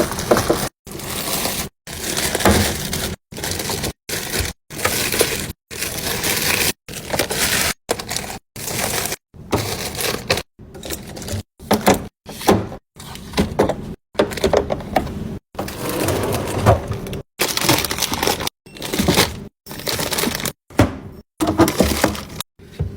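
Fridge-restocking handling sounds in quick edited cuts: containers and packaging being handled and set down, each snippet a second or less and broken off by a sudden silence.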